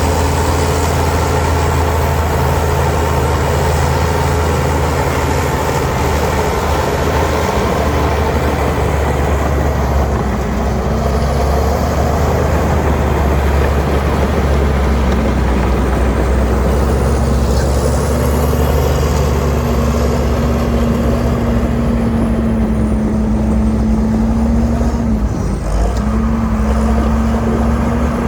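Heavy diesel earthmoving equipment running steadily, a deep engine rumble with a steady whine that comes in about a third of the way through and dips briefly near the end.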